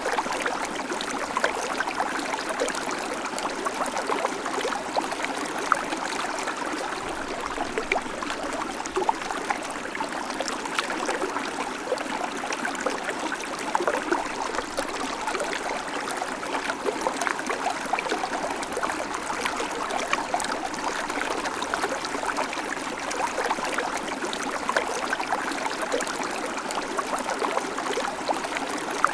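Babbling creek: shallow water running steadily over stones with a constant busy trickle and splashing.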